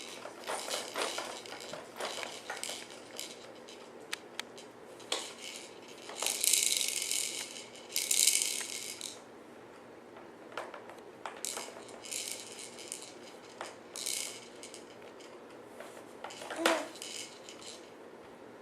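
Plastic toys and parts of a Rainforest Jumperoo baby bouncer rattling and clicking as a baby bounces and plays in it, with several bursts of shaker-like rattling.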